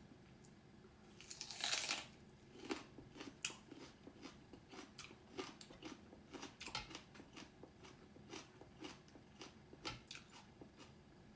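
Close-up eating sounds: a loud crunchy bite about a second in, then steady open-mouthed chewing with short moist clicks about twice a second.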